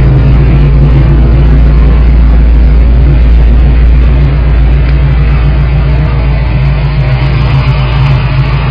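Ford 351 V8 with a Comp Cams XE262H camshaft, headers and MagnaFlow exhaust, idling steadily and loud with a deep exhaust drone. It drops slightly in level about four seconds in.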